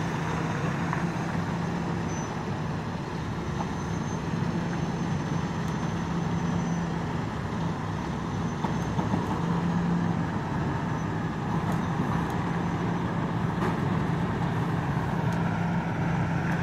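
Tractor-trailer's diesel engine running steadily at low revs while manoeuvring: a constant low hum.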